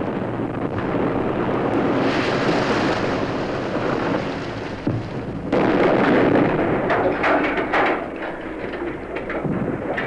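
Harsh noise music: a dense wall of rumbling, crackling noise that starts abruptly. It surges louder about five and a half seconds in, then breaks into rapid crackles.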